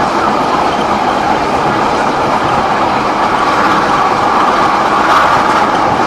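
Heritage steam-hauled passenger train running along the line: the steady, loud running noise of the carriage's wheels on the rails.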